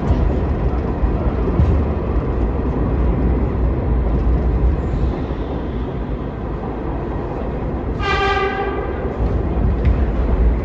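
New York City subway train running with a steady low rumble, and about eight seconds in one short horn blast lasting under a second.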